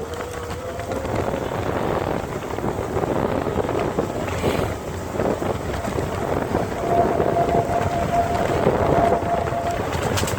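Wind buffeting the microphone over rolling noise while riding an electric bicycle. A thin steady whine comes in about seven seconds in and holds for a few seconds.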